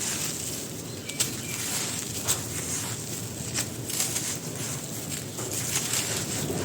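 Dry black grainy sand shapes crumbling: a steady crunchy crackle with frequent crispy snaps, the sharpest about a second in and just after two seconds in.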